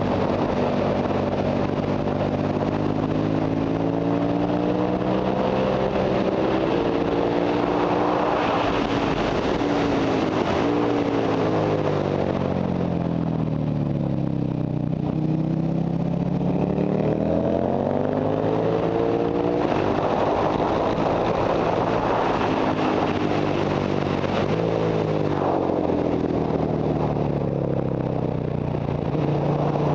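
Ducati Monster 1100 Evo's air-cooled L-twin engine heard on board at speed, with wind noise. The engine note rises and falls with the revs, stepping at gear changes, and drops lowest about halfway through as the bike slows for a corner before climbing again.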